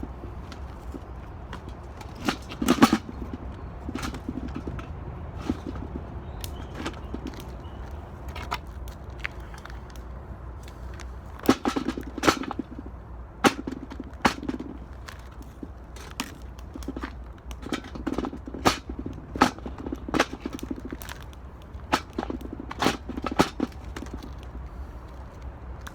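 Wood fire burning in an 18-litre metal can, giving irregular sharp cracks and knocks in clusters over a steady low rumble.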